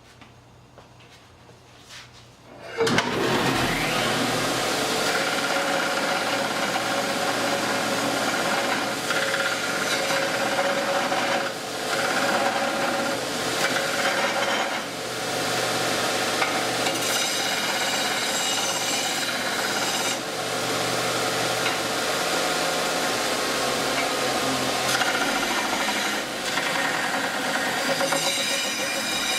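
Delta 31-730 belt sander grinding 1/4 inch wall 4x4 steel tube on a worn abrasive belt. The loud, continuous grinding starts suddenly about three seconds in and eases briefly a few times as the steel is worked against the belt.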